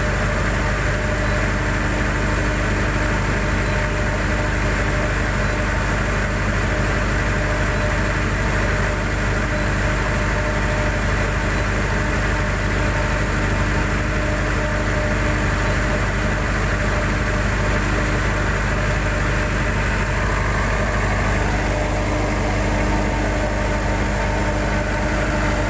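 Cummins QSB5 diesel engine running steadily on a test run, its note even and unchanging throughout.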